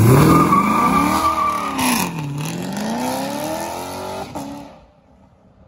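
Corvette C7 Stingray's 6.2 L LT1 V8, breathing through long-tube headers with the catalytic converters deleted, accelerating hard. The revs climb, drop at a gear change about two seconds in, climb again, and then the sound fades out as the car drives away.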